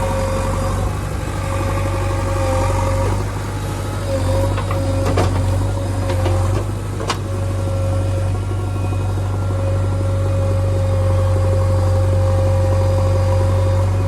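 JCB 3DX backhoe loader's diesel engine running steadily with a held whine over its low hum, and a couple of sharp knocks about five and seven seconds in.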